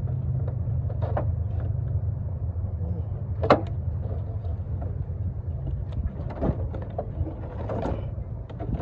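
A motor vehicle's engine running steadily with a low hum, with a few sharp knocks over it, the loudest about three and a half seconds in.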